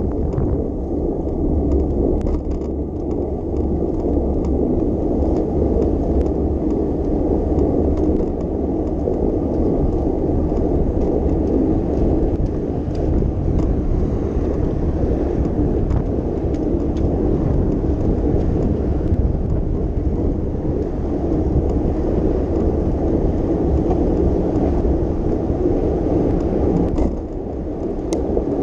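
Steady wind rush on the microphone and rumble from a moving bicycle, with a few faint clicks and rattles. The level dips briefly near the end.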